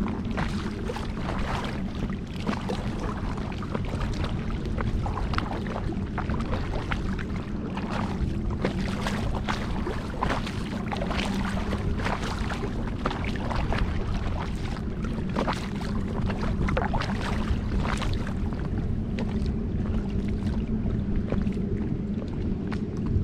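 Kayak paddle strokes in lake water: repeated short splashes and drips as the blades dip and lift, over a steady low rumble.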